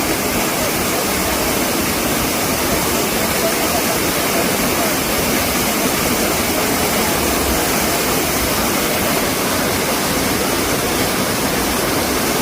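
A waterfall pouring, making a loud, steady rush of water.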